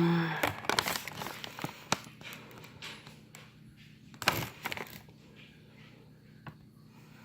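Kitchen handling sounds: rustling and clicking, with one louder knock about four seconds in, over a faint steady low hum.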